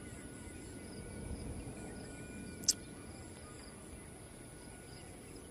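Wind buffeting the microphone in an uneven low rumble, under a faint steady high-pitched whine, with one sharp click about two and a half seconds in.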